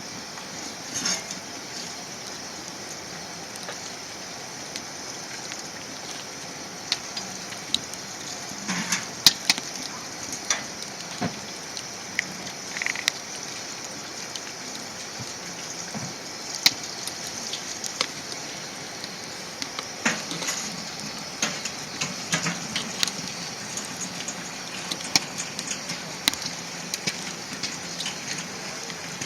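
Wood fire burning with a steady hiss and irregular sharp pops and crackles.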